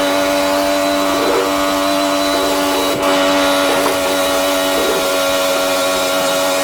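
Kubota L3540 diesel tractor engine running at a steady speed under way, loud and even.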